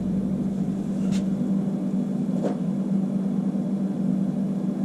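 A steady low hum, with two faint clicks about a second and two and a half seconds in.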